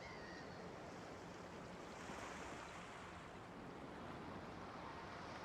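Faint steady hiss of background noise, swelling slightly about two seconds in and again near the end.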